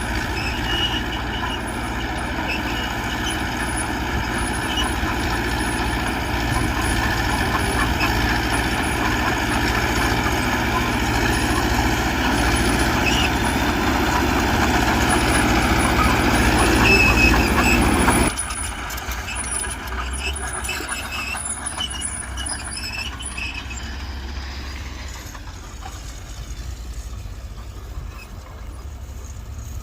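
Diesel engine of heavy earthmoving machinery running hard under load, growing louder, then dropping off sharply about two-thirds of the way through and running quieter after that.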